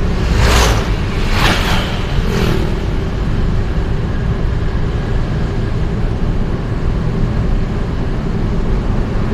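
Road noise from a vehicle driving through city traffic: a steady low rumble, with three brief whooshes of passing vehicles in the first three seconds.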